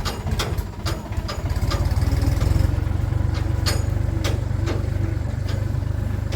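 An engine running steadily, louder from about a second and a half in, with sharp clicks or knocks over it.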